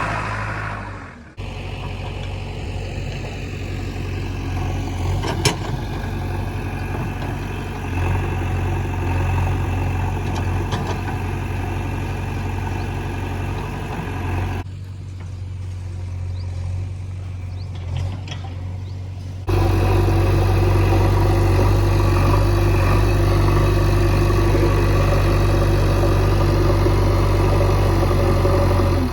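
JCB 3DX backhoe loader's diesel engine running steadily under work. The sound changes abruptly several times: it drops about a second in, dips again around fifteen seconds, then jumps louder around twenty seconds.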